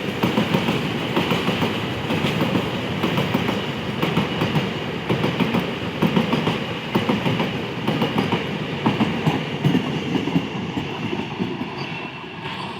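Double-decker railway coaches running past on the rails, their wheels clattering over rail joints in a quick, continuous rhythm. The clatter eases near the end.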